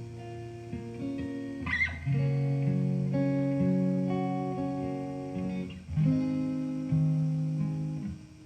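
Acoustic guitar playing sustained chords, with new chords struck about two seconds and six seconds in, and a short scrape just before the second chord.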